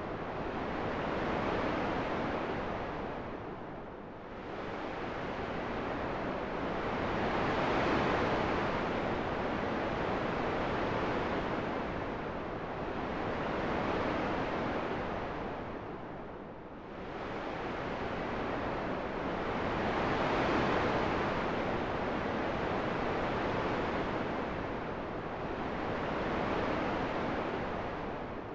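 Steady wind noise that rises and falls in slow gusts, swelling and easing every few seconds.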